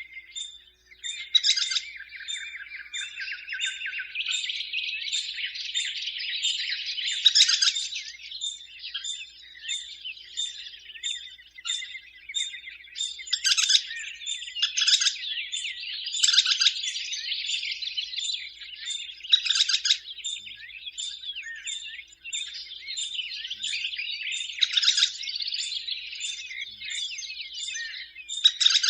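Western kingbirds calling: a continuous run of sharp chattering and twittering notes, with louder bursts every few seconds.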